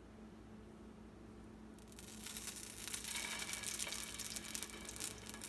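Hot oil sizzling and crackling as an egg-coated shami kebab is laid in to shallow-fry. The sizzle starts about two seconds in and grows louder a second later.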